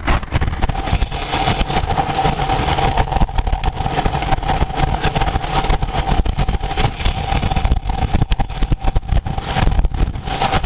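Steady, gusty rumble of wind and road noise at speed, with a constant mid-pitched hum.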